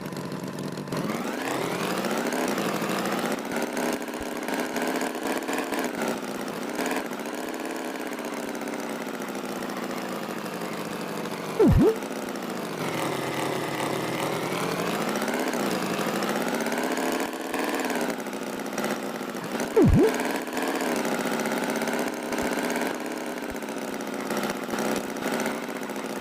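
Tractor engine running, its pitch drifting up and down as it revs and eases off. Twice it is interrupted by a brief, louder swooping sound.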